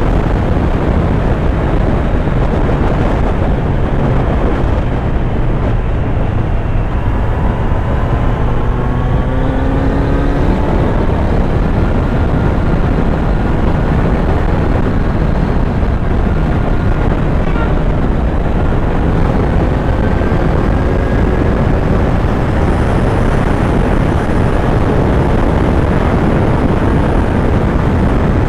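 Kawasaki Z900's inline-four engine running on the move under heavy wind noise on the microphone, the engine's pitch rising as it accelerates about eight seconds in.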